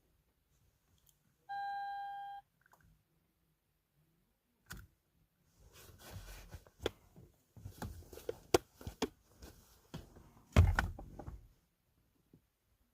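Inside a Lexus RX400h hybrid that won't start: one electronic beep lasting about a second, then a string of irregular clicks and knocks with one louder thump near the end. No engine runs.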